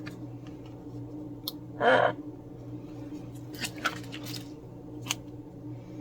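A parrot gives one short, harsh squawk about two seconds in, with a few light clicks and taps around it and a steady low hum underneath.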